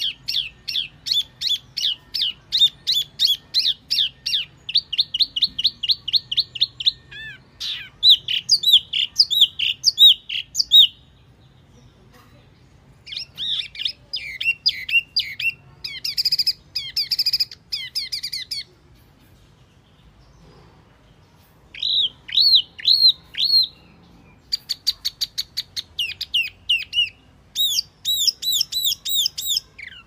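Recorded song of the wambi mini bird, played as a lure call: quick runs of repeated, high, slurred whistled notes, several per second, in phrases broken by a couple of short pauses.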